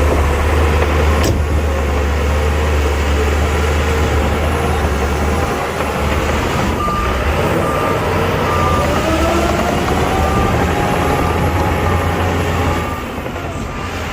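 Heavy diesel dump truck engine running with a deep, steady rumble, its pitch rising for a few seconds as it is revved. From about halfway a reversing alarm beeps about twice a second.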